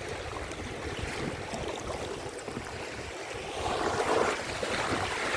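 Sea waves washing and splashing, with wind on the microphone; a wave surges up louder about four seconds in.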